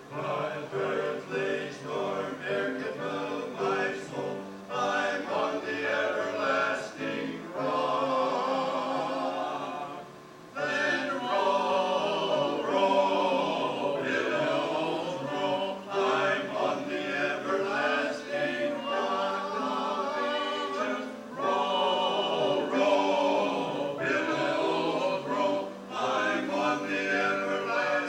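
Choir singing, with a brief break between phrases about ten seconds in.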